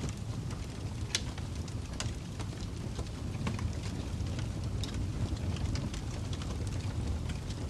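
Fire crackling: a steady low rumble with scattered, irregular sharp pops and snaps.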